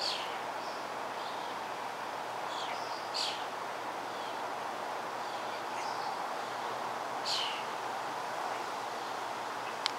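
Small birds chirping: a few short, high chirps that fall in pitch, the clearest at the start, about three seconds in and about seven seconds in, over a steady background hiss. A single sharp click comes just before the end.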